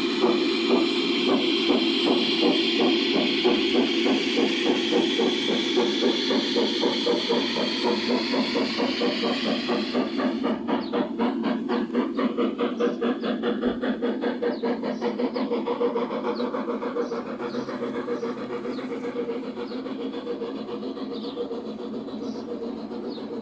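Large-scale model train running on garden track, its onboard sound system giving a steady locomotive drone with a regular beat that quickens about ten seconds in, then easing off slightly toward the end.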